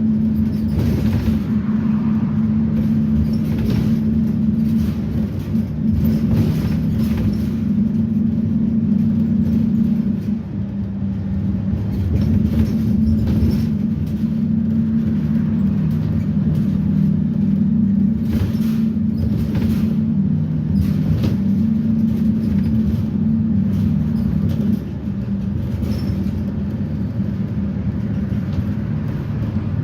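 GM Vortec V8 propane engine of a Blue Bird Vision school bus under way, heard from on board as a steady drone. Road noise and scattered knocks and rattles come through it. The drone drops in level briefly about ten seconds in and again near the end.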